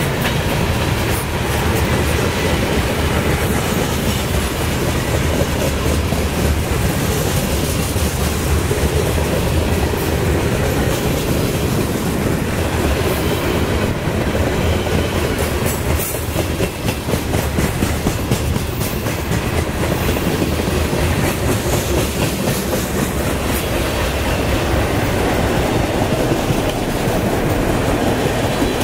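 Freight train cars rolling past at close range (covered hoppers, autoracks and tank cars): a steady, loud rumble of steel wheels on rail with many sharp clicks and clacks from the wheels passing over the rails.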